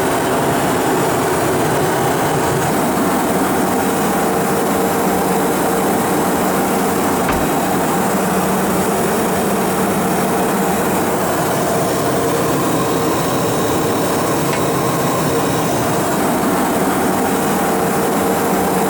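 Embraer Phenom 300 business jet running in flight: a steady rush of air and engine hum, with a few steady tones held through.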